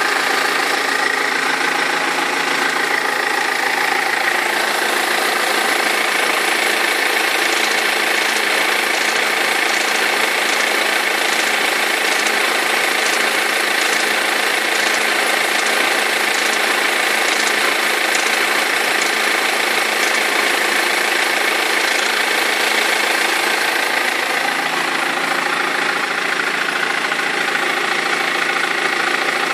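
BMW E46 320d four-cylinder diesel engine idling steadily with a knocking rattle: the rubber of its crankshaft pulley / vibration damper has perished.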